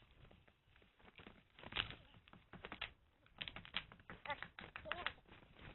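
Faint, irregular clicks and snaps, with a short wavering, voice-like sound about four seconds in.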